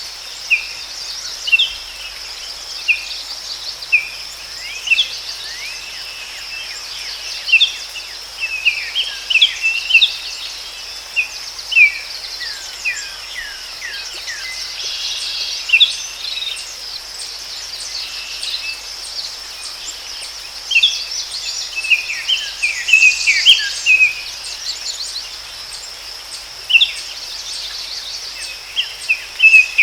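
Forest ambience: many short bird chirps and calls, busiest around ten and twenty-three seconds in, over a steady high-pitched insect drone.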